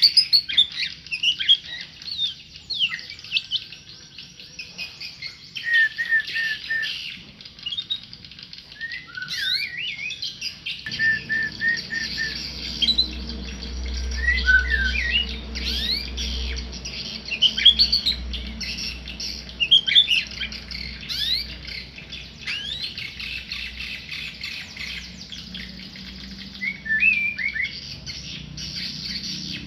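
Tame murai, a magpie-robin songbird, singing a varied song of quick whistled notes, sharp upward and downward glides and short runs of one repeated note. A low rumble sits underneath from about a third of the way in.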